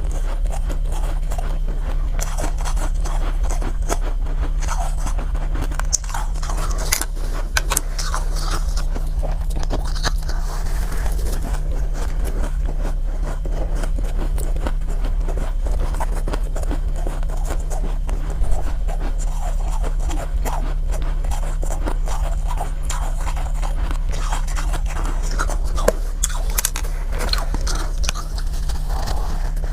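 Soft, powdery ice being bitten and chewed close up: dense, irregular crunching with scraping sounds, over a steady low hum.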